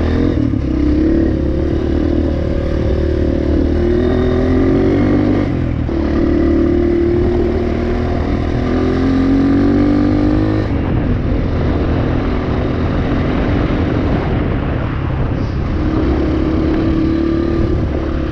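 Enduro dirt bike's single-cylinder engine running on a trail, its pitch rising and falling as the throttle is worked, with a short drop in pitch about six seconds in and again about eleven seconds in.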